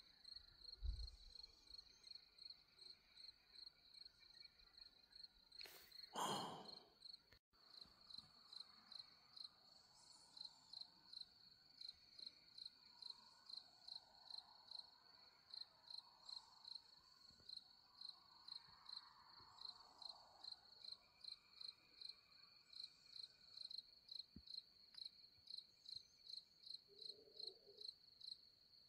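Cricket chirping steadily at about two chirps a second. A brief loud whoosh comes about six seconds in.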